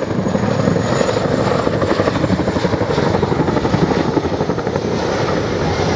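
RAF Chinook tandem-rotor helicopter flying a display pass: the steady, loud, rapid beat of its twin rotors.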